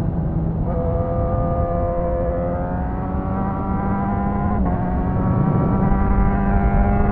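Suzuki GSX-S1000's inline-four engine accelerating, its note climbing steadily in pitch with two breaks, about a second in and around four and a half seconds in.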